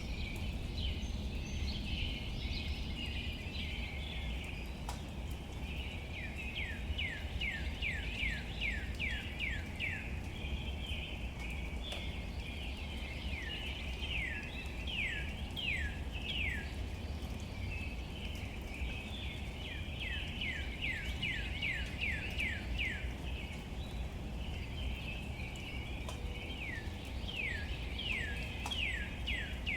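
Outdoor ambience of birds calling in runs of quick downward-sliding notes, several a second, over a dense background chorus and a steady low rumble, with faint scattered ticks.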